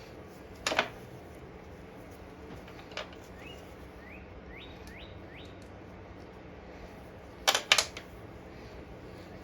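Sharp clicks and clacks of parts being handled: one under a second in, a faint one around three seconds, and a loud double clack near the end. In between, a bird chirps about five short rising notes.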